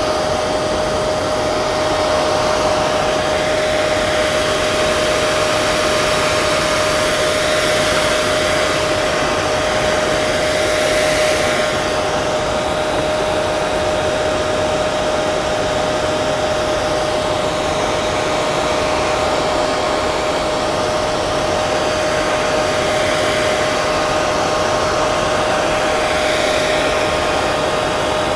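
Hair dryer running steadily: a constant rush of air with a steady motor hum.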